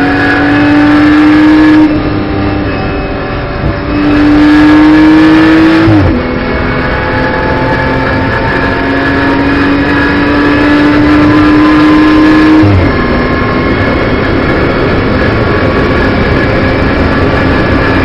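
BMW M240i Racing Cup's turbocharged straight-six heard from the cockpit under load, its note climbing slowly over long pulls. The pitch drops sharply about 2, 6 and 13 seconds in.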